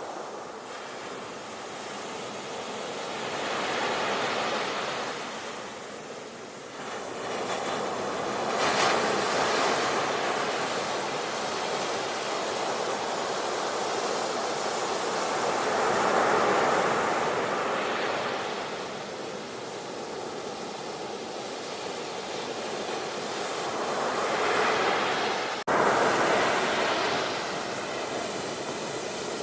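Ocean surf: waves breaking and washing ashore, a steady hiss that swells and eases with each wave, four slow surges over the stretch. The sound drops out for an instant about three-quarters of the way through.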